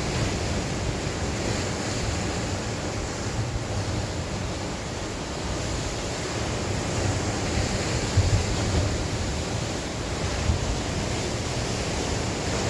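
Sea waves washing and breaking on the shore in a steady, unbroken wash, with wind gusting over the microphone as a low rumble.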